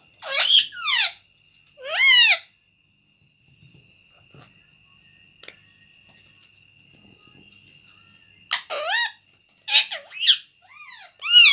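Pet parrot calling in short arching squawks. There are two quick calls at the start and another about two seconds in, then a pause and a run of several calls near the end.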